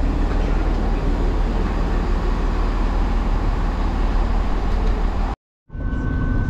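Diesel multiple-unit train idling at the platform, a loud steady low rumble. About five seconds in it cuts off abruptly and gives way to the running noise inside a moving train carriage, with a steady high whine.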